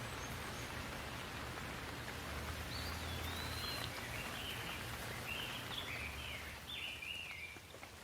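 Steady rain patter with a low rumble beneath it, and a bird calling in a run of short chirping notes through the middle. The rain eases slightly near the end.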